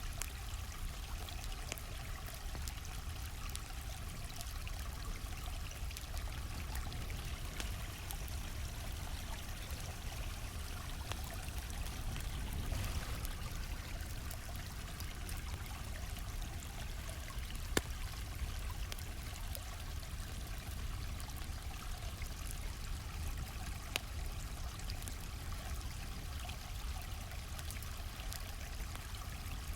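Steady rush of a flowing stream, with scattered sharp pops and crackles of a campfire, the loudest about 18 and 24 seconds in.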